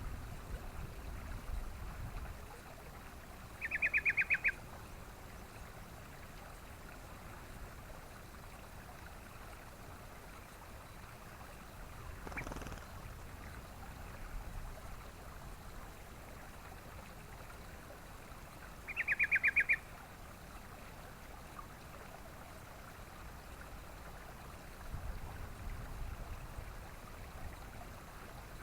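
Sooty-headed bulbul (trucukan) calling twice, about fifteen seconds apart: each call is a quick rattle of about ten falling notes, lasting under a second. A steady hiss runs underneath, with low rumbling near the start and the end.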